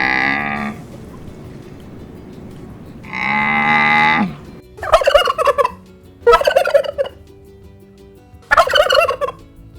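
Domestic turkey gobbling: three short, rapid warbling gobbles from about five seconds on. Before them come two long, drawn-out animal calls, the second ending in a falling pitch.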